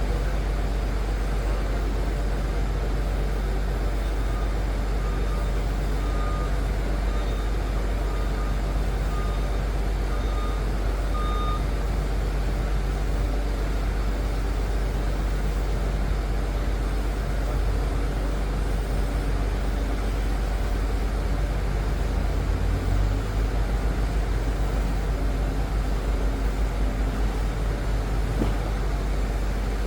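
Liebherr PR 746 crawler dozer's diesel engine running steadily with a deep rumble while working, its reversing alarm beeping in a string of short beeps in the first half and again near the end.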